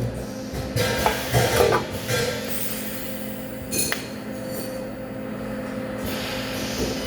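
Metal pieces clinking and knocking against each other, over a steady electrical hum.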